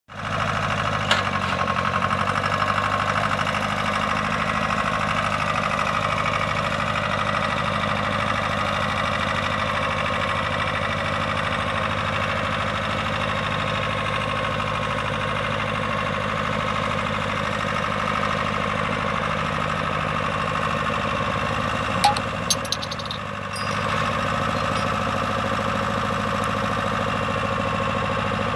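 Tractor engine running steadily at a constant speed. A few sharp clicks and a short drop in level come about three-quarters of the way through.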